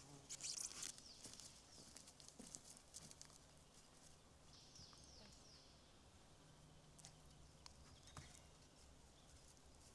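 Near silence: faint ambience with scattered small clicks and rustles, a cluster of them in the first second, and a brief run of high chirps about halfway through.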